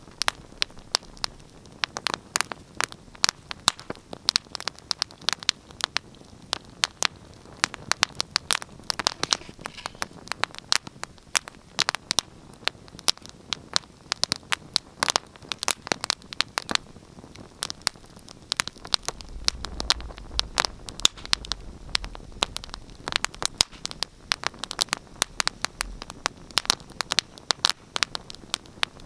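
Wood fire crackling in a fireplace: dense, irregular sharp pops and snaps over a soft hiss, with a brief low rumble about two-thirds of the way through.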